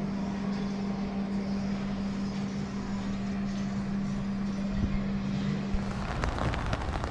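A vehicle engine running with a steady low hum over a wash of street noise; the hum stops about six seconds in.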